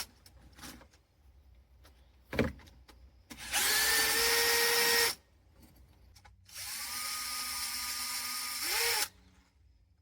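Power drill running in two bursts of a second or two each while backing out the Allen bolts on an excavator travel motor. Its motor rises to speed and holds steady, the second run lower in pitch. A single sharp knock comes about two and a half seconds in.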